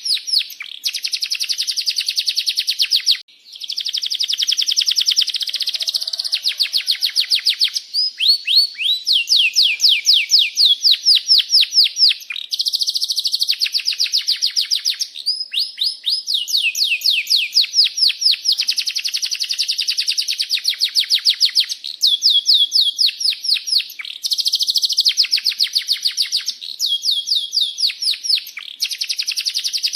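Domestic canary singing a long song of fast rolled trills made of rapid repeated chirping notes, broken by brief pauses between phrases a few times.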